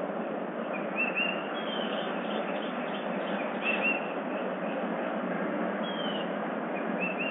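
Small birds chirping, several short notes that each fall quickly in pitch, over a steady hiss of background noise.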